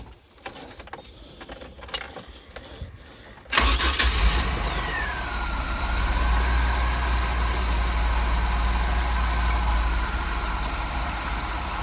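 A few light clicks and rattles, then about three and a half seconds in the Chevy Astro's 4.3 L V6 fires at once with no hesitation and settles into a steady, smooth idle. The instant start in wet weather is the sign that the dielectric grease is keeping moisture out of the ignition module, coil and distributor cap.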